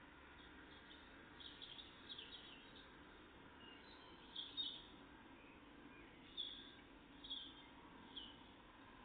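Small songbirds giving short, high chirps in scattered clusters over faint background noise, the loudest burst about four and a half seconds in.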